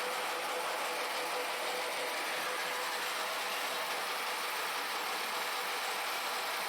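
Steady hissing machine noise with a faint steady hum underneath, unchanging in level.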